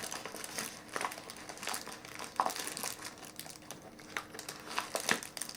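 Plastic accessory bag crinkling and rustling as hands rummage through it, with irregular light clicks and crackles of small items inside.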